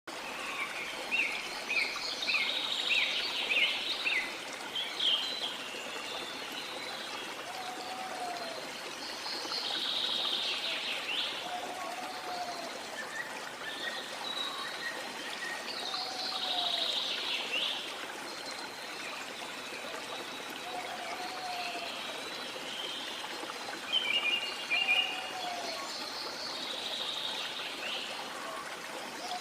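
A waterfall's steady rush of falling water with tropical forest birds calling over it. One bird repeats a low, arched whistled note every few seconds, another gives a higher sweeping call about every six seconds, and quick chirping trills come near the start and again near the end.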